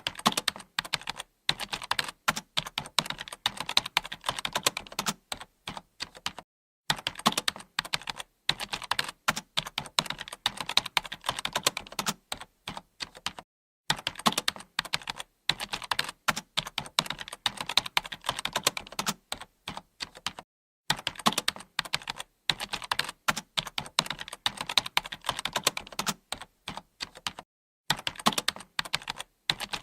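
Computer keyboard being typed on continuously, rapid key clicks in runs of several seconds with short pauses between them.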